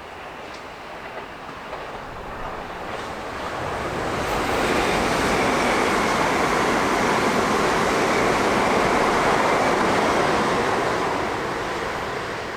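Southeastern electric multiple-unit train passing along the platform: a rushing run of wheel and motor noise that swells over a few seconds, holds loud, then fades away.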